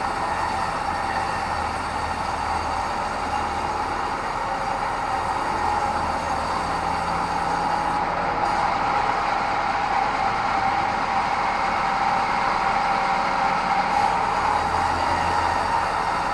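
Sawmill band saw running steadily with a continuous whine, growing a little louder in the second half.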